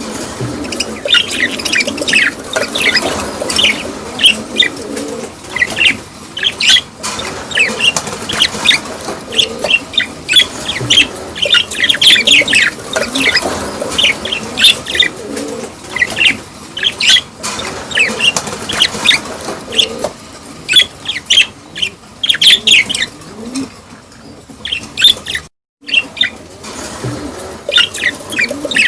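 A group of budgerigars chattering and chirping in rapid, overlapping bursts during breeding season, with occasional wing flutters. The sound drops out completely for a moment near the end.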